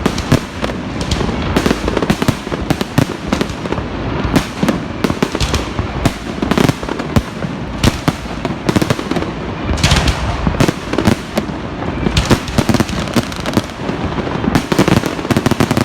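Fireworks going off nonstop: a dense volley of bangs and crackling pops, many overlapping, over a continuous low rumble.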